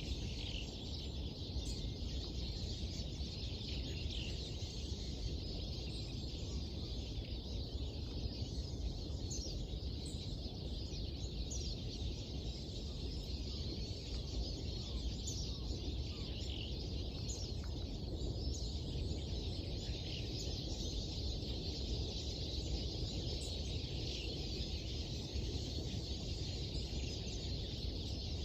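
Songbirds chirping and twittering at dawn, many short calls overlapping, over a steady low background rumble.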